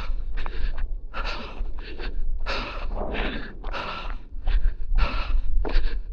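A runner's heavy, hard breathing, quick breaths in and out about two a second, from the exertion of running up a steep hill.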